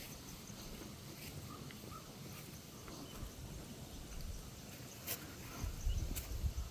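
Footsteps walking along a park path, with irregular low thuds and two sharp clicks near the end.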